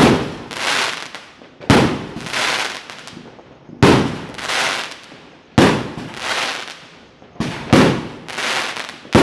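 Fireworks going off in a steady series: a sharp bang about every two seconds, each followed about half a second later by a second, noisier burst that dies away. Two bangs come close together near the end.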